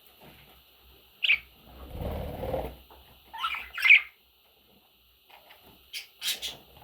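Budgerigar giving short high chirps in three separate bursts. About two seconds in there is a low rustling noise lasting roughly a second.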